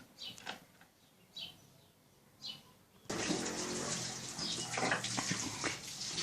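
A few short, high, falling chirps, then about three seconds in a steady rushing noise like running water starts abruptly and gets louder.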